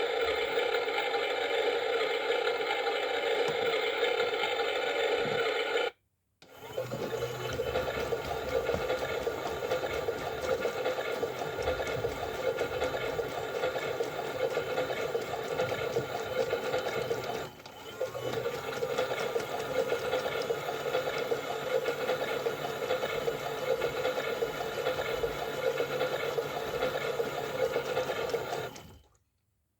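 Small electric motor of a toy washing machine running its wash cycle with water sloshing in the drum, a steady whirring hum. It cuts out briefly about six seconds in, then runs again with a lower hum underneath, and stops near the end.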